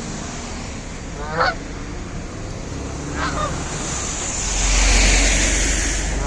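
Canada geese honking: two short honks about two seconds apart, the first the loudest, with a third starting just at the end. In the second half a low rushing noise swells and fades.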